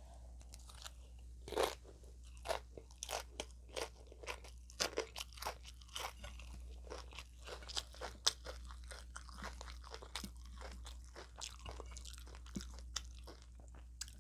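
Close-up crunching and chewing of a crunchy hard taco shell, a run of irregular crisp crunches a few times a second.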